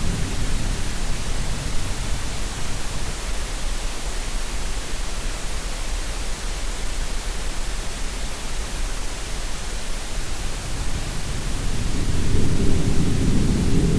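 Steady green-noise hiss mixed with sea sounds. A low surge of surf fades away in the first second or two and swells up again near the end.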